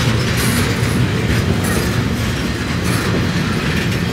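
Railroad cars rolling past on the track: steady noise of wheels on rail with scattered clicks.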